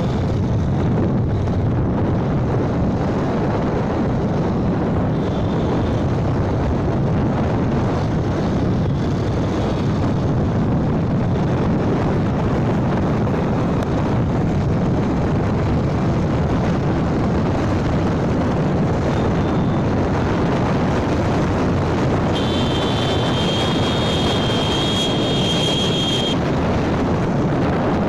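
Steady wind rush over the microphone and running noise of a moving motorbike. Near the end a high steady tone sounds for about four seconds.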